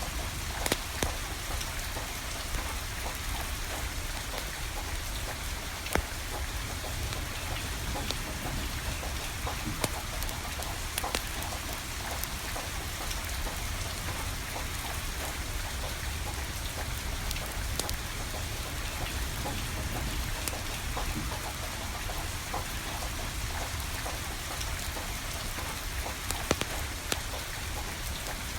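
Steady rain falling, with scattered sharp pops and clicks from a wood fire burning and a low steady rumble underneath.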